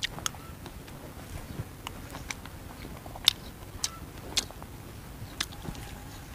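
A person chewing a mouthful of rice, with scattered sharp wet mouth clicks and smacks, the loudest a little past three seconds in.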